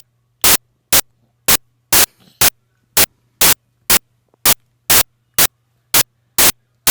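Short bursts of loud hiss-like static repeating evenly, about two a second, over a faint steady hum.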